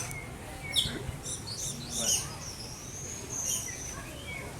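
Several birds chirping and whistling, with quick high chirps throughout and one longer whistle about three seconds in.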